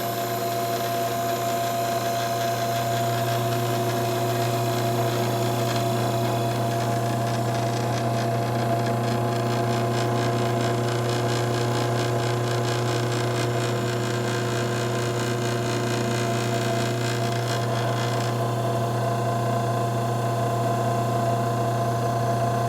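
Tecumseh B series two-cylinder, four-pole hermetic compressor running steadily with a low, even hum.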